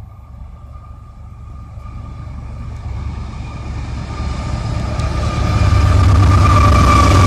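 CSX freight train's diesel locomotives approaching, the low engine rumble growing steadily louder until it levels off near the end. A steady high whine carries over it throughout.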